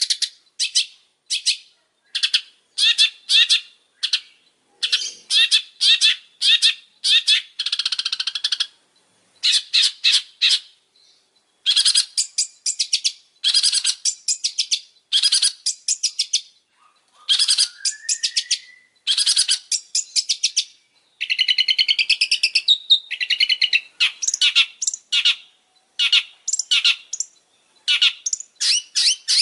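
Long-tailed shrike (pentet) singing vigorously: rapid runs of short chattering notes in quick bursts separated by brief pauses, with a single rising whistle a little past halfway and a longer warbling stretch later on.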